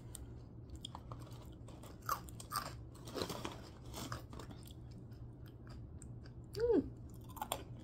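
Crunchy barbecue snack sticks being chewed, a run of small crisp crunches. A brief hummed vocal sound rises and falls near the end.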